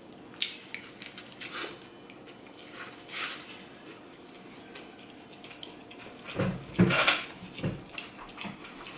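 Close-up eating sounds: a person chewing with soft lip smacks and small clicks, and a louder short vocal sound with a low knock about six and a half to seven seconds in.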